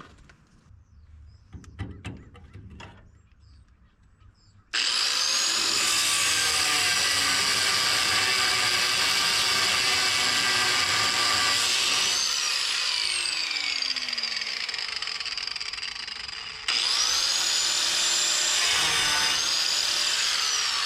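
A power cutting tool cutting through a steel hitch bar: a few faint knocks, then about five seconds in it starts with a high whine and runs steadily for several seconds, spins down with falling pitch, and starts again near the end.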